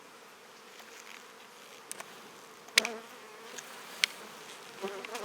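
Honeybees buzzing steadily around an open hive, with a few sharp clicks, the loudest about three seconds in and another about a second later.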